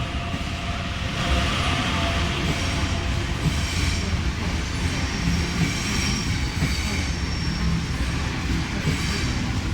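Electric passenger train pulling into the platform: a steady rumble of wheels on rail that grows louder about a second in, with thin high-pitched wheel squeal joining it.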